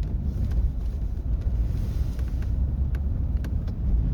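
Steady low rumble of a car driving, heard inside the cabin: road and engine noise, with a few faint clicks.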